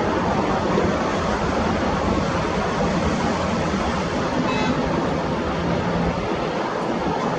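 Steady rushing noise with an underlying hum from an ATR 72-600 twin turboprop airliner's engines and propellers. It holds level and does not rise or fade.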